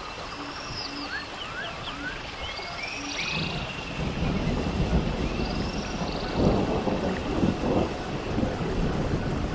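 A low rumbling noise that builds about three seconds in and carries on in uneven swells, with repeated high chirping calls that rise and fall above it.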